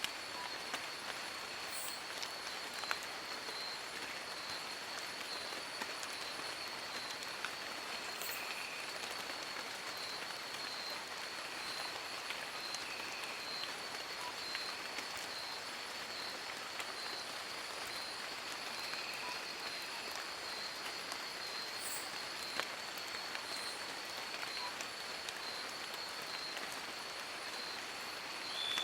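Steady rain falling on forest leaves, a dense even patter with a few louder drips. A high-pitched pulsing tone runs steadily through it.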